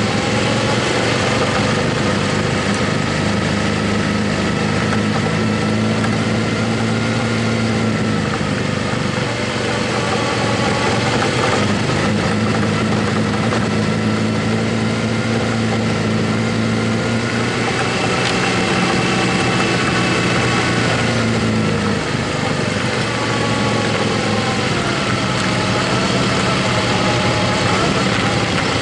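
Motorcycle engine running steadily while riding, its note rising and falling gently a few times with changes in speed, over a constant rush of wind and road noise.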